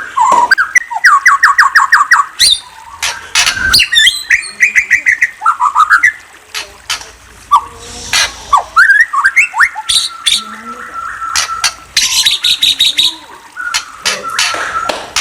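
A bird calling in a busy, varied stream: quick runs of repeated chirps, short rising and falling whistled notes, and harsh squawks.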